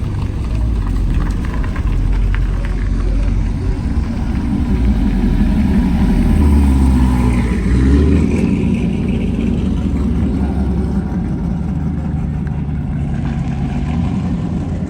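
Car engines and exhaust rumbling deeply, building to a peak about halfway through and then easing off.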